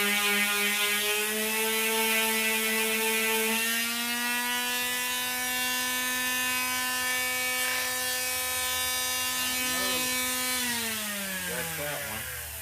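Handheld electric power tool running steadily with a motor whine while taking material off the edge of a dashboard piece. Its pitch lifts slightly a couple of times, then it is switched off and spins down with a falling whine near the end.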